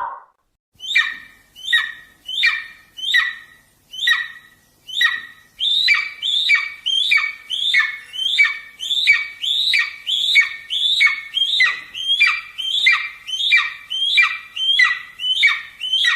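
A bird calling over and over with short, harsh squawks, each sliding down in pitch. The calls come slowly at first, then settle into a steady run of about two a second from around five seconds in.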